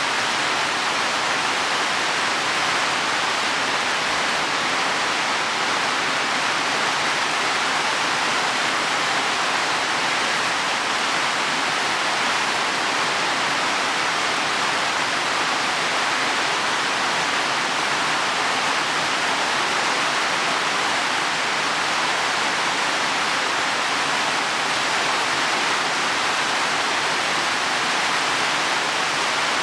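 Heavy rain falling on leaves and soil, a steady even hiss with no breaks.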